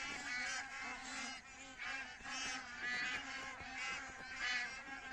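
A large flock of migratory waterfowl calling continuously, many overlapping honking calls at once.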